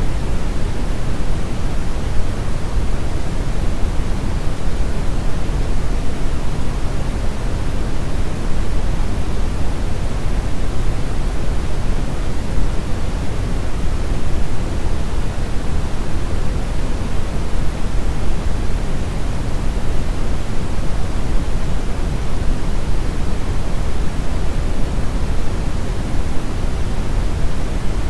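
Brown noise: a steady, even rumbling hiss weighted heavily toward the low end, with no changes or events.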